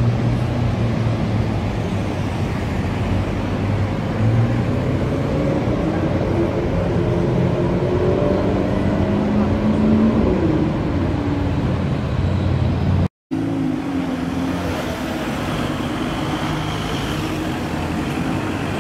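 Car engines in busy city traffic, with one engine rising in pitch as it accelerates about halfway through. After a sudden cut about two-thirds of the way in, a Maserati GranTurismo's V8 engine drives past.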